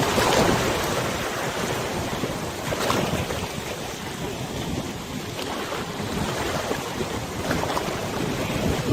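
Wind gusting over a wide river and buffeting the microphone with an uneven low rumble, over the rushing and lapping of the river's waves. Louder surges come at the start, about three seconds in, and again near the end.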